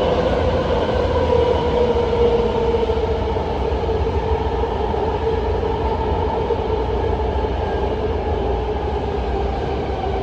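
BART Legacy train running and slowing as it arrives at a station: a steady low rumble of wheels on rail under a whine from the drive that slowly falls in pitch as the train decelerates.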